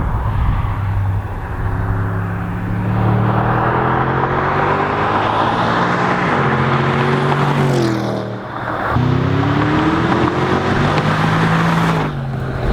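Porsche Panamera Turbo's twin-turbo V8 running loud through a Capristo exhaust under power. The engine note holds, dips sharply about eight seconds in, then climbs again.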